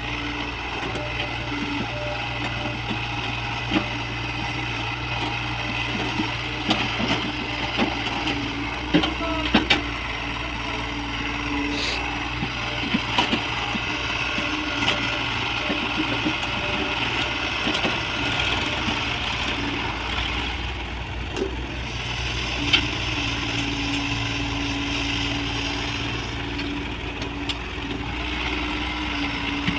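Diesel engine of heavy earth-moving machinery running steadily, with scattered clanks and rattles from the machine at work. The knocks are thickest from about six to sixteen seconds in.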